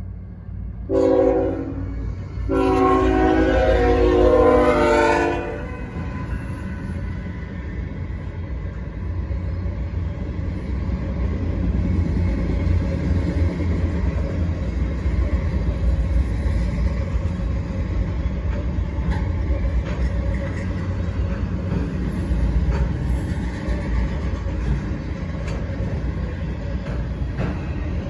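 Freight locomotive's air horn sounds a short blast, then a longer one of about three seconds. After that comes the steady low rumble and clatter of freight cars, mostly autoracks, rolling past.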